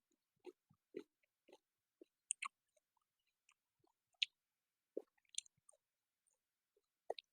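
A person chewing food close to the microphone. There are soft rhythmic chews about twice a second at first, then scattered wet, sharp mouth clicks and smacks.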